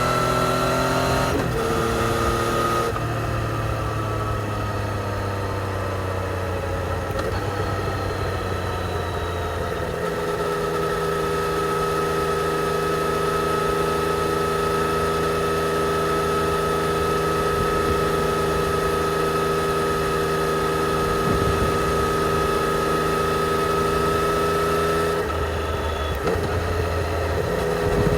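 Yamaha XSR 900's inline-three engine running through its stock exhaust on the move. The pitch shifts in the first few seconds, then falls slowly, holds a steady cruise for about fifteen seconds, and changes again near the end.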